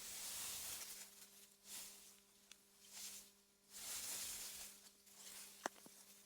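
Faint wind gusting through meadow grass in soft swells that rise and fade every second or so, over a steady low hum. A sharp click sounds near the end, with a smaller one just after it.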